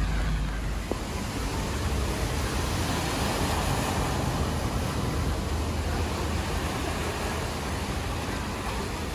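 Steady hiss of heavy rain falling, with a constant low rumble underneath.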